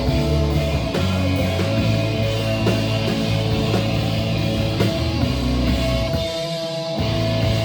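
Live rock band playing without vocals: electric guitar over bass and drums, the bass dropping out briefly near the end.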